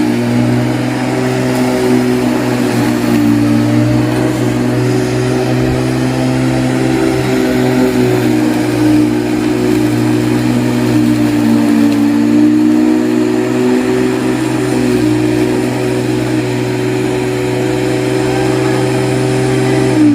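Lawn mower running steadily through the long grass, its pitch wavering slightly, then winding down and stopping at the very end.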